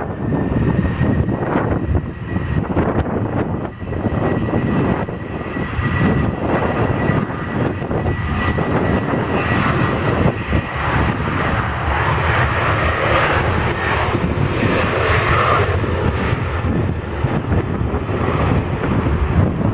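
Airliner jet engines running loudly as a plane passes: a deep rumble with a thin steady high whine that fades out after about ten seconds. Wind buffets the microphone throughout.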